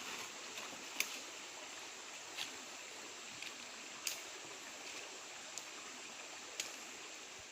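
Steady rush of a flowing stream, with a few sharp clicks scattered through it.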